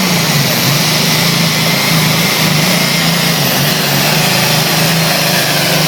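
John Deere pulling tractor's engine running hard under load during a pull, a loud steady drone whose pitch wavers slightly.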